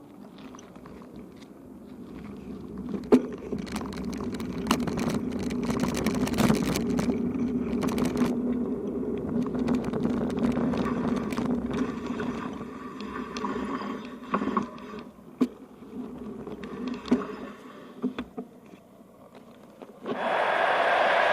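A low, steady vehicle hum with a few held tones swells up, holds, and fades away, with scattered knocks along the way. Near the end a louder, brighter sound starts suddenly.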